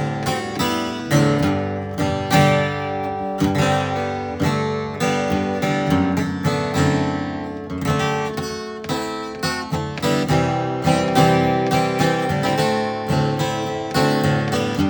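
A 1947–48 Gibson J-50 flat-top acoustic guitar, strung with Martin Retro 13-gauge strings, played with strummed chords and picked notes; a loud-sounding guitar.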